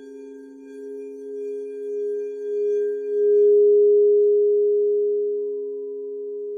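Singing bowls ringing in a sustained chord of several steady tones. The sound swells in waves to its loudest about three and a half seconds in, then slowly eases off.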